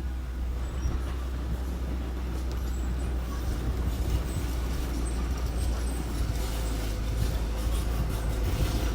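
Diesel engine of heavy earthmoving machinery, a small bulldozer or dump truck, running steadily with a deep low rumble. A faint steady whine joins from about halfway through.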